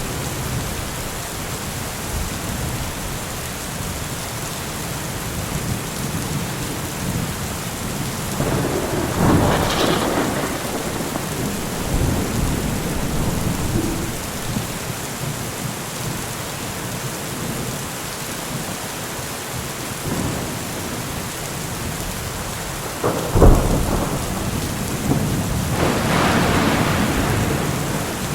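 Steady rain hissing down, with thunder twice: a rolling rumble about a third of the way in, and near the end a sharp crack, the loudest moment, that rolls on into a longer rumble.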